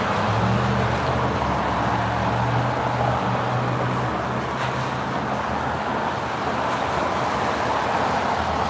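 Steady road and tyre noise of a moving car, with a low engine hum through the first half or so that then fades.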